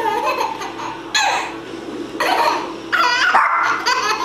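A small child laughing in several bursts, with a higher squeal of laughter about three seconds in.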